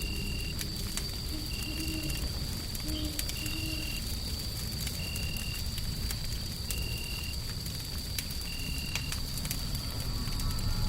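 Wood fire crackling, sharp irregular pops over a steady low rumble of white noise. A short high chirp repeats about every one and a half seconds, and a thin steady high tone runs above it.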